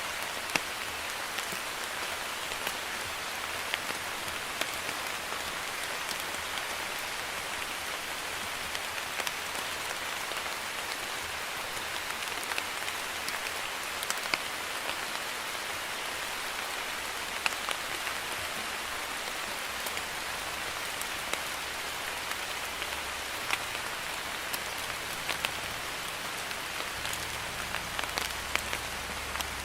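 Steady light rain, a drizzle, falling on a surface: an even hiss dotted with scattered sharp ticks of individual drops.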